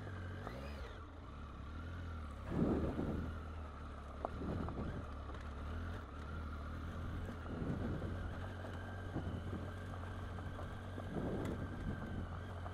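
Triumph Tiger 800 XC's three-cylinder engine running steadily at low revs as the bike rolls down a rough gravel trail. Several brief louder rushes of noise come through over the engine.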